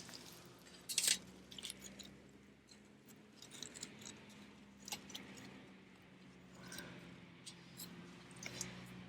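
Small wood fire crackling, with scattered sharp pops and clicks, the loudest about a second in.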